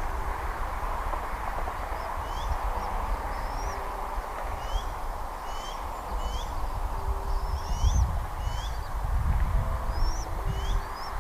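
Bald eagle giving a series of short, high, thin chirping whistles, mostly upward-slurred notes about once a second, over a low rumble.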